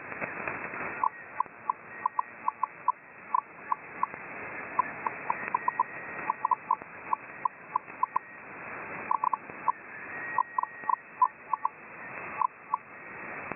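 Shortwave radio receiver tuned to 9675 kHz in upper-sideband mode: steady static hiss with an unidentified signal of short, high beeps of one pitch, coming irregularly in clusters of a few per second with brief gaps.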